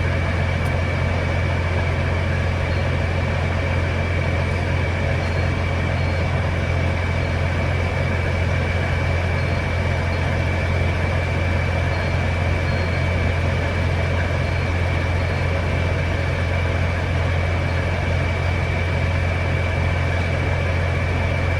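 Semi truck's diesel engine idling: a steady low hum with a thin, steady high tone above it.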